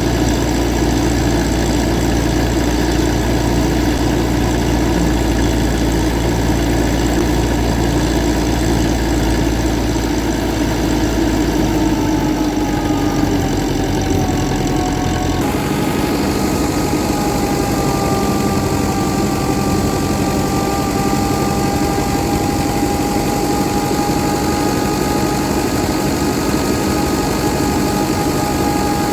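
An engine running steadily, with a few slowly wavering tones over a constant hum. The sound changes abruptly about fifteen seconds in.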